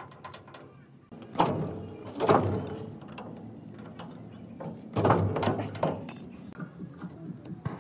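Four loud knocks and clatters in two pairs, each with a short ring or rattle after it, over a low rustling background.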